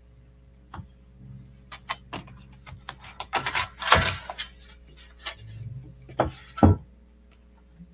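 Handling noises from opening up a MacBook Pro: small clicks and scrapes of metal parts and screws being moved. A louder scraping rustle comes about halfway, and two sharp knocks come near the end.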